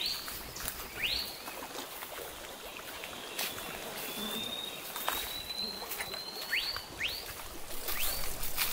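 Bird calls in scrub forest: several short whistles sweeping sharply upward, and one long thin whistle slowly rising in the middle, over scattered crackles of dry leaves and twigs underfoot.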